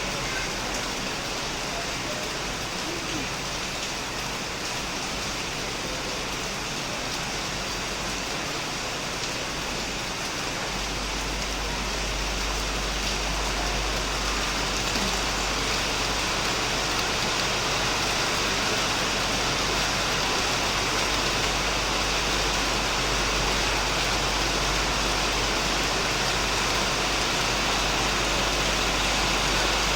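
Heavy rain falling steadily on a shed roof and surrounding plants, an even hiss that grows a little louder after about twelve seconds.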